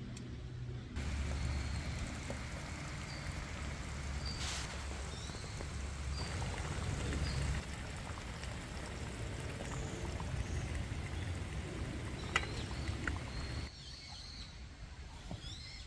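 A steady outdoor rushing noise with a low rumble cuts in about a second in and drops away near the end. Short high chirps of small birds sound over it.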